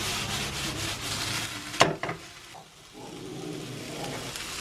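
Soboro mixture sizzling in a frying pan while a spatula scrapes and stirs it. About two seconds in there is a sharp knock against the pan, then the sizzle dies down.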